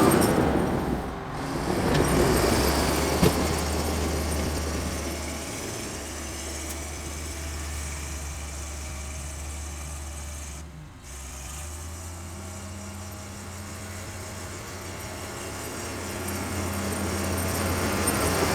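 Engine of a 64-year-old Volvo snow-clearing machine running under working load, a steady low drone that rises and falls in loudness and dips briefly past the middle. A single sharp click comes about three seconds in.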